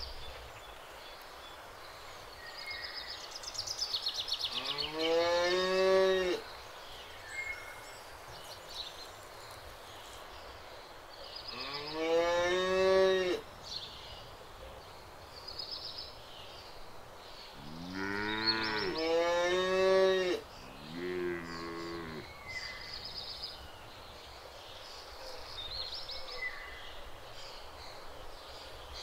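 Cows mooing: long moos about five, twelve and eighteen seconds in, each rising in pitch and then holding, with a second cow overlapping the third and a short call right after it.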